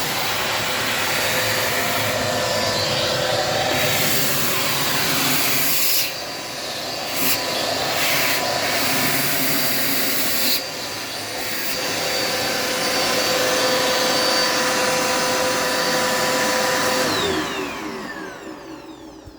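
Dirt Devil Multi-Surface vacuum cleaner running at full power, its level dipping briefly twice. Near the end it is switched off, and the motor winds down with a falling whine as the sound fades away.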